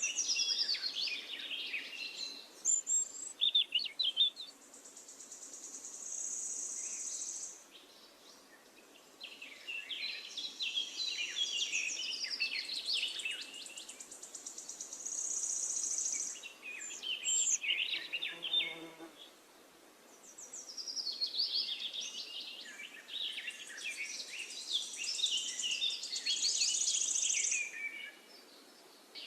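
Songbirds singing in bursts of quick chirping, trilling phrases, with a high, steady buzz that comes in three times for a few seconds each.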